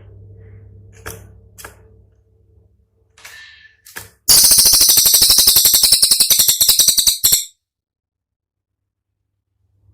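Cililin songbird giving a loud, very rapid burst of sharp, closely packed notes, about ten a second for some three seconds starting about four seconds in. This is the sharp, dense 'tembakan' (shot) phrase used as training audio for songbirds. Before it come a faint low hum, a few short chips and a brief whistled note.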